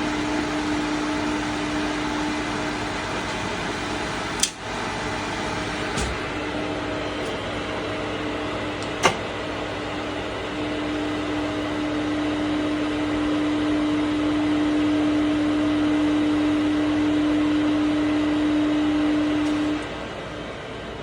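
Three-phase electric motor running from a freshly repaired Schneider Altistar 22 soft starter under test: a steady electrical hum with a whir underneath. There are two sharp clicks a few seconds apart, and the hum cuts off near the end.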